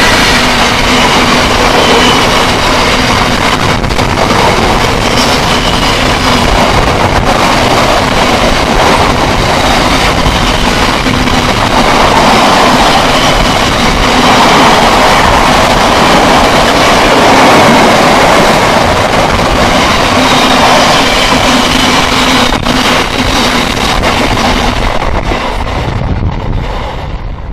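A rake of loaded IIA-D biomass bogie hopper wagons rolling past behind a Class 66 diesel freight locomotive: steady, heavy wheel-on-rail rumble with a few sharp knocks from the wheels. It fades near the end as the last wagons pull away.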